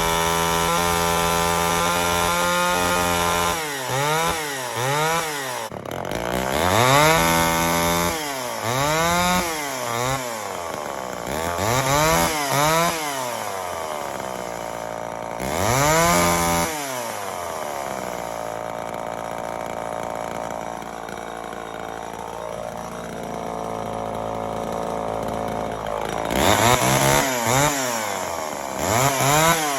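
Homelite XL-12 two-stroke chainsaw running: held steady for a few seconds, then revved up and back down again and again, settling to a steady idle for several seconds in the middle, and revved again near the end. It runs strongly, which the owner calls running absolutely great.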